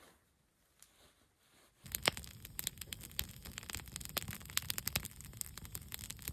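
Campfire crackling with many irregular sharp pops over a low steady rumble, starting suddenly about two seconds in after a near-quiet moment.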